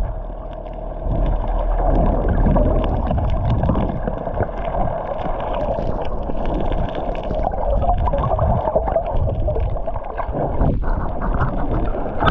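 Steady rushing, gurgling sea water with a low rumble underneath, cutting off abruptly at the end.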